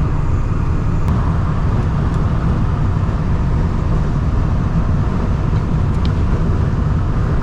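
Steady road and engine rumble inside a vehicle cruising at highway speed, deep and unchanging.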